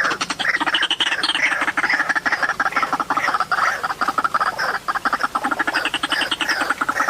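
White-breasted waterhen calling: a continuous stream of harsh, rapidly repeated notes with no break.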